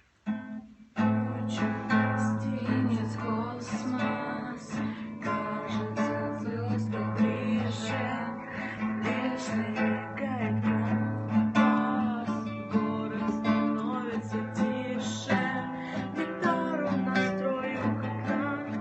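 Acoustic guitar being strummed, playing chords with repeated down-strokes, starting about a second in.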